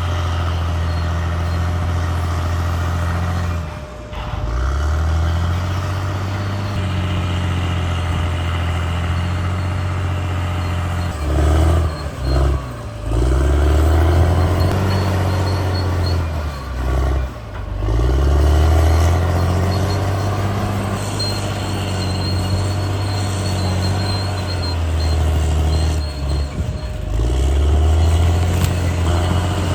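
CAT D6R XL bulldozer's diesel engine running hard, its pitch sagging and recovering several times as the load comes on and off.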